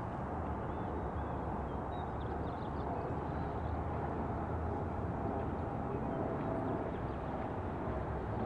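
Steady low rumble of distant motor noise, with a faint drawn-out whine in it, and a few faint bird chirps about two seconds in.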